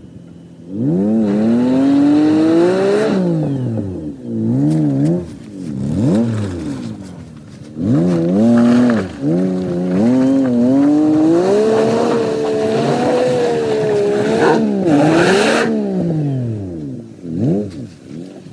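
Pickup truck engine revving hard again and again while crawling off-road. Its pitch climbs, wavers and drops back several times, with one long high-rev push in the middle.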